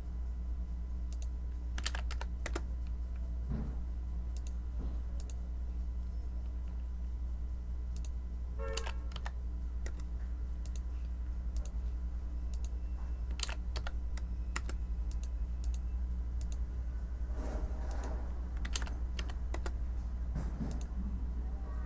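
Typing on a computer keyboard: irregular keystrokes, sometimes in quick runs, over a steady low hum.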